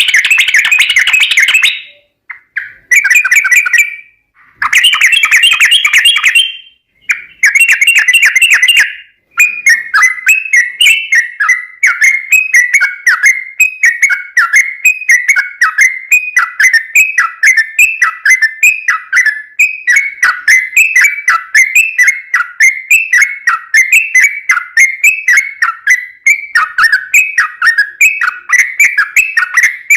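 Yellow-vented bulbul (trucukan) singing loudly. Several short bursts of rapid bubbling phrases with brief pauses come first; then, about nine seconds in, a fast run of short falling chirps repeated roughly twice a second.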